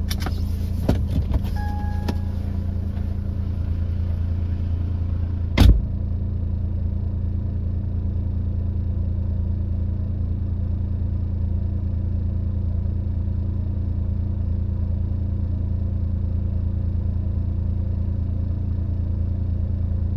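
Car engine running steadily with a constant low hum. A single loud thump comes about five and a half seconds in.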